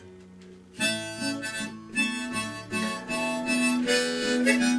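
Harmonica playing a melody over acoustic guitar, coming in about a second in after a faint low note: the instrumental intro to a folk song.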